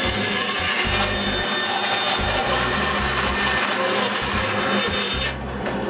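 Power saw cutting a curved end into a thin wooden strip, a steady cutting noise that stops about five seconds in.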